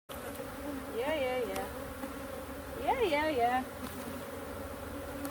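A swarm of honey bees buzzing steadily around an open hive, a constant hum.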